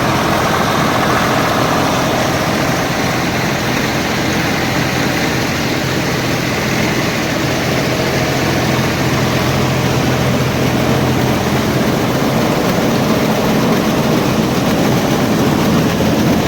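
Tractor-driven paddy threshing machine running steadily: the tractor's diesel engine and the thresher's drum working together.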